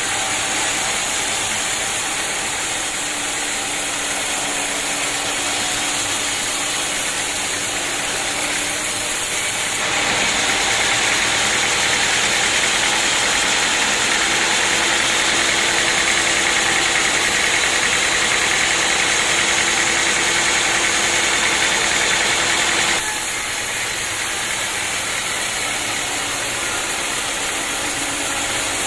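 Sawmill machinery running steadily. From about ten seconds in it becomes louder and hissier, then drops back abruptly about thirteen seconds later.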